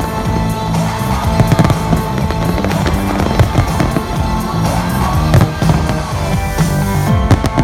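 Fireworks bursting and crackling, many sharp bangs in quick succession, over loud music with a pulsing bass.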